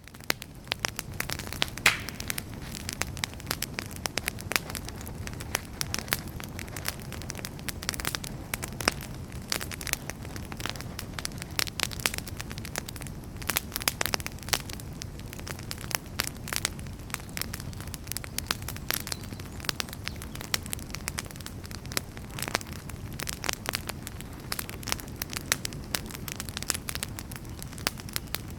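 Wood fire burning in a fireplace: a steady low rush of flames with frequent, irregular sharp crackles and pops from the burning logs.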